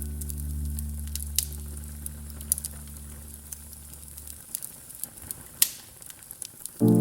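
Wood fire crackling with irregular sharp pops and a steady hiss, a few pops louder than the rest. The last low chord of a jazz track rings out and fades by about four seconds in, and new music comes in just before the end.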